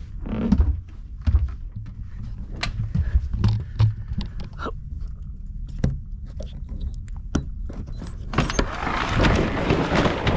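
Yacht's mainsail being lowered: scattered clicks and knocks from the sail hardware, then a loud rustle of sailcloth for the last couple of seconds as the sail comes down.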